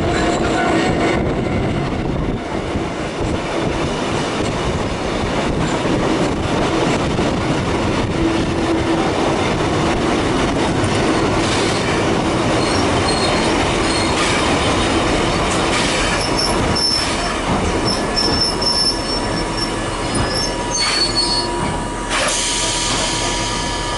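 Kotoden 300, a 1926 electric railcar with nose-suspended traction motors, running on rails, heard from aboard. A steady rumble with a motor hum goes on throughout, high-pitched wheel squeals come in through the second half, and a loud burst of hiss comes near the end.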